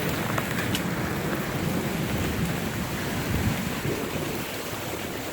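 Heavy rain with large hailstones, about quarter size, falling: a steady rushing hiss with a few sharp ticks of hail striking in the first second.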